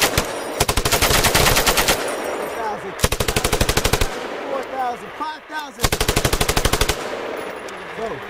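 M240G 7.62 mm medium machine gun firing in short bursts: the end of one burst, then three more bursts of rapid shots about a second long each, with one to two seconds between them.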